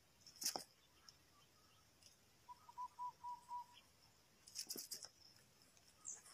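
A faint run of about six short, evenly spaced cooing notes from a dove, about two and a half seconds in, between a sharp click about half a second in and a louder cluster of clicks near five seconds.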